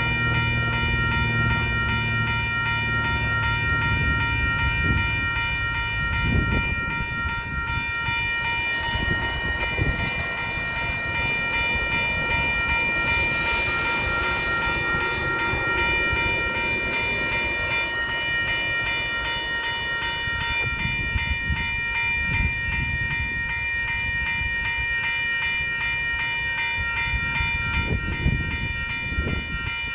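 Train passing with a steady rumble. Over it runs a steady, rapidly pulsing high ringing throughout.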